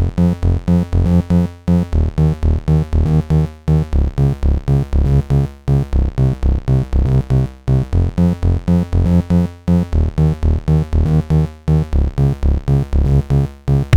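Electronic music: short, chopped low synth notes in a steady pulse of about three a second over a drum machine, dropping out briefly about every two seconds.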